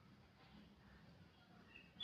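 Near silence with a faint low hum, then near the end one short whistled note from an oriental magpie-robin as it starts into its song.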